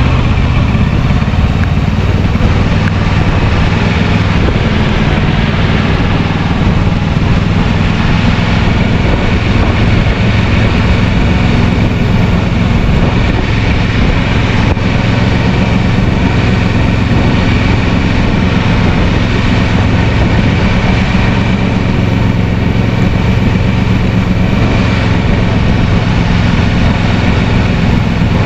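Kawasaki Versys 650's parallel-twin engine running at a steady pace while riding, under a constant rush of wind noise.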